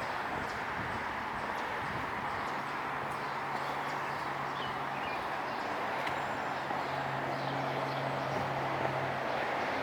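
City street traffic: a steady wash of passing-vehicle noise, with a low engine hum coming in a couple of seconds in and holding steady, and a few faint bird chirps.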